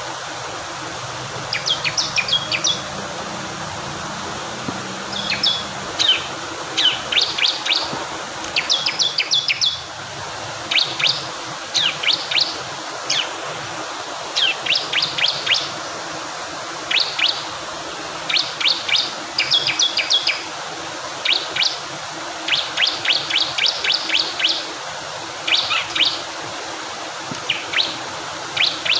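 Bar-winged prinia (ciblek kristal) singing in repeated short bursts of quick, high, sharp notes, over a steady rush of flowing water.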